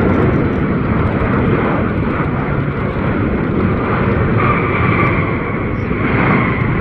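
Jet airliner's engines on landing approach: a loud, steady rumble with a high whine that slowly falls in pitch, a second pair of whines coming in about two-thirds of the way through.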